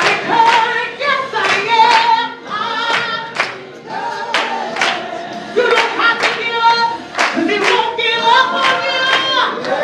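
Gospel singing with hand claps on the beat, about two claps a second.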